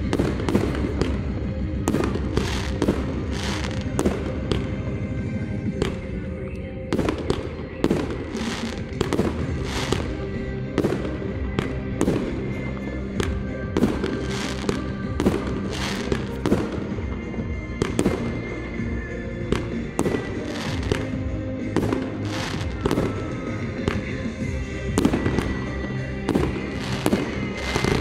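Fireworks display going off in rapid, irregular bangs and crackles, often several a second, over loud music played through a sound system.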